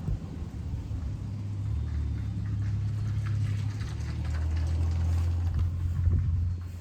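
A low, steady engine hum that swells over the middle and eases off near the end, with faint scattered clicks over it.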